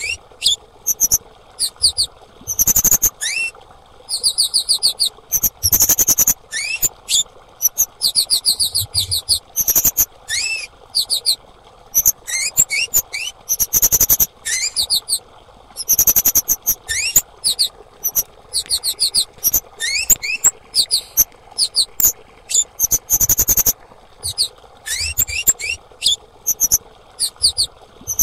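Female kemade calling: repeated bursts of rapid, high-pitched chirps and short upward-sweeping notes, with brief pauses between bursts, over a faint steady background hiss.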